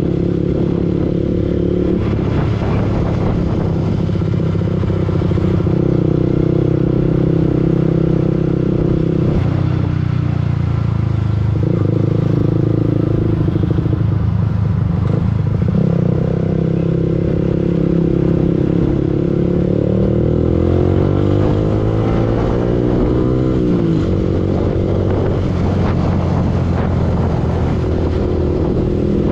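Yamaha R15 V2's single-cylinder four-stroke engine running while riding. Its note holds steady for most of the stretch, then rises for a few seconds about two-thirds through and drops sharply.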